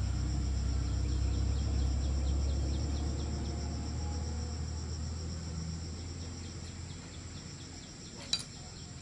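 Insects chirping steadily, with regular faint ticks, over a low rumble that slowly fades away; a single sharp click near the end.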